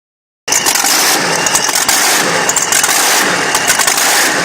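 Engine of a tractor-pull competition vehicle running loud and steady under hard throttle.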